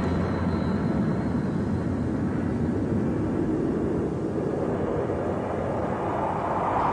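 A steady, loud rushing rumble.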